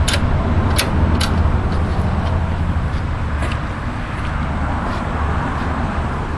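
A steady low motor hum, with three sharp clicks in the first second and a half and a fainter one a few seconds later.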